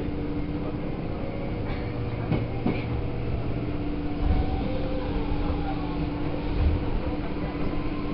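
Hanshin electric commuter train running, heard from inside the front car: steady wheel-on-rail rumble with a constant hum, and two louder low thumps about halfway through and near the end.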